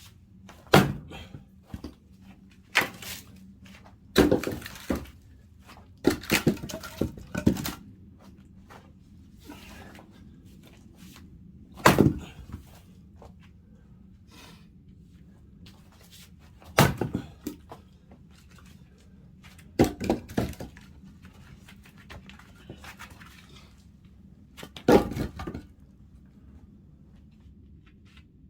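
Irregular sharp knocks and thuds, about eight spread out with short clusters of several in quick succession.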